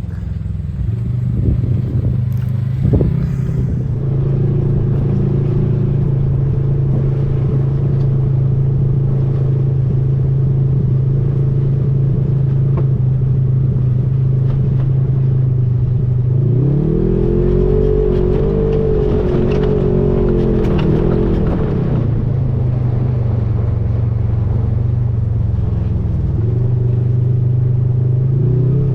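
Off-road vehicle engine running steadily as it drives. Its pitch rises and falls over about five seconds from about halfway through, then steps up again near the end.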